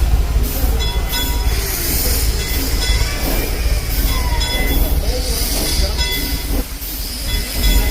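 Frisco Silver Dollar Line steam train rolling with a steady low rumble as it comes back into the depot, with a thin, high squeal of wheels on the rails in the first second or so.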